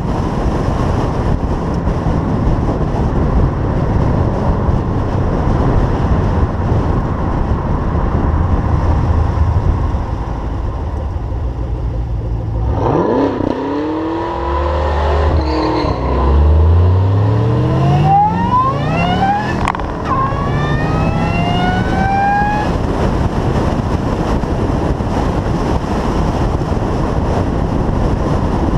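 Chevrolet Camaro ZL1's supercharged 6.2 L LSA V8 on the move: steady engine drone with road and wind noise, then a little under halfway through a hard acceleration with the engine pitch climbing through the gears, a gear change, and another rising pull, before it settles back to a steady cruise.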